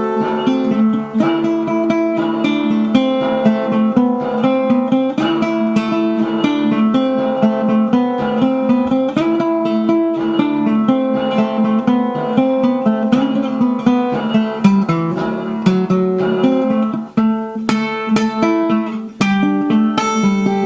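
Acoustic guitar music: a run of plucked and strummed notes.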